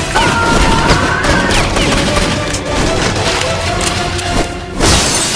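Action soundtrack: music mixed with rapid gunfire and boom sound effects, with a loud hit near the end.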